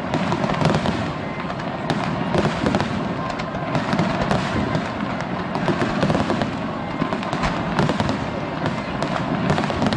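Fireworks display: a dense, continuous run of bursts and crackling, many sharp reports close together.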